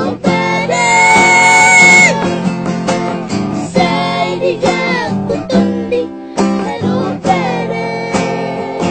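A child singing a song to strummed acoustic guitar, holding a long note about a second in and another around four seconds in.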